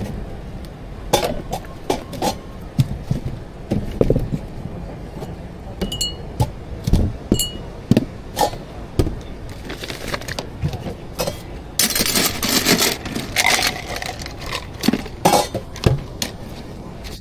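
Barista work sounds: cups, glassware and utensils clinking and knocking again and again. Two short high beeps come about six and seven and a half seconds in, and a brief hissing rush about twelve seconds in.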